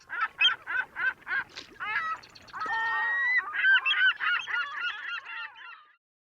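A bird honking in a quick run of short calls that bend in pitch, with one longer held note about three seconds in; the calls stop just before the end.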